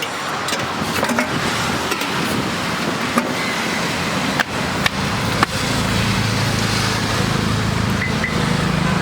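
Road traffic passing close by: a steady noisy rush with a few sharp clicks. About halfway through, a vehicle engine's low drone comes in and holds.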